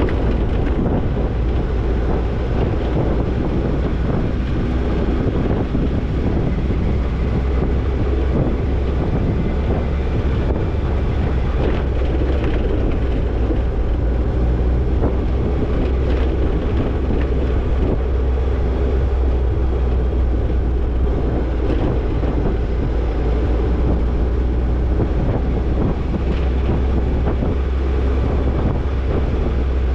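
Toyota Tercel 4WD wagon driving steadily on a trail: a constant low engine and drivetrain rumble with road noise, and no break or change in pace.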